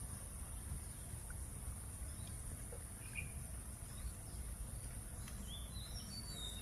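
Outdoor park ambience: a steady high-pitched insect buzz with a few short bird chirps near the end, over a low rumble.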